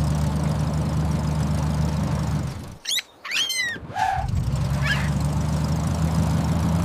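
A pet's short, high squeaky calls falling in pitch, a few together about three seconds in and one more near five seconds, over a steady low hum that drops out while the calls come.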